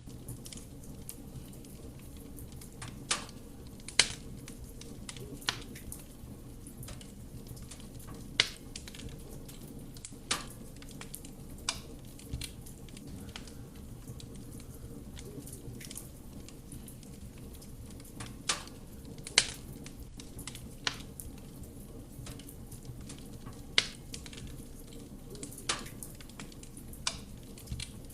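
Wood fire burning in a fireplace: a steady low rumble of flame with sharp, irregular crackles and pops from the burning wood.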